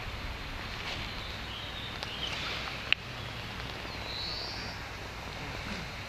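Outdoor ambience: a steady low rumble with a bird calling in short high phrases, one of them about four seconds in, and a single sharp click near the three-second mark.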